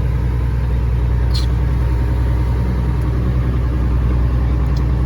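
Caterpillar 3406E inline-six diesel of a Freightliner FLD120 semi truck running steadily, a constant low drone heard from inside the cab.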